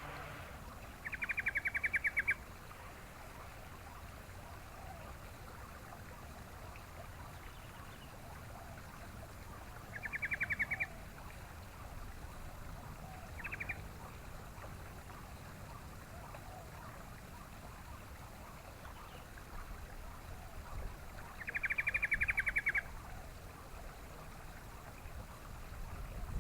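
Yellow-vented bulbul (trucukan) giving four short bursts of fast chattering notes, the first and last the longest, over a steady background hiss.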